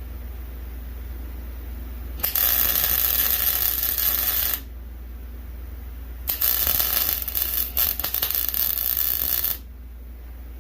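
Electric welding: two bursts of welding arc crackling, about two and a half and three seconds long, with a short pause between them, over a steady low hum.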